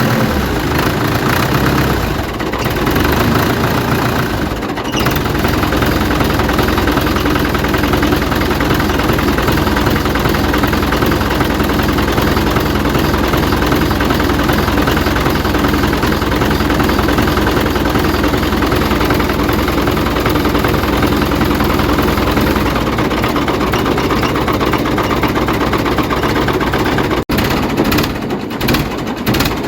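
An engine idling steadily with an even low drone. It breaks off sharply near the end, then comes back choppier.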